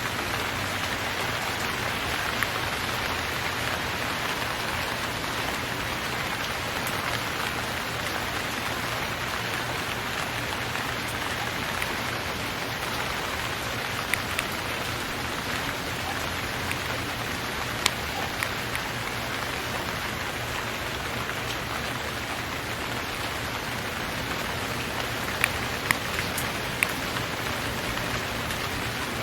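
Steady rain falling, an even hiss with a few sharp ticks now and then.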